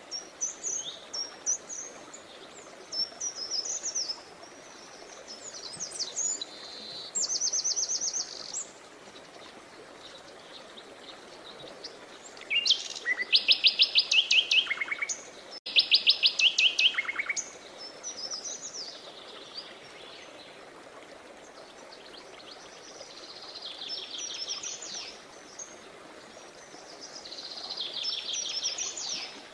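Wild birds singing, a mix of chirps and rapid trills. The loudest trills come near the middle. Underneath is a faint steady rush of running water.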